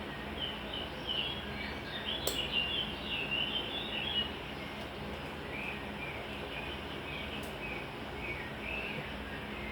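Small birds chirping in quick, short calls, busiest in the first half and scattered later, over a steady background hiss, with a single sharp click a little over two seconds in.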